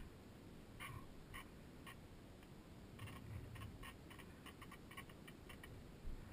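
Faint, irregular short chirping calls from a small animal, a few a second, over a low rumble of wind on the microphone.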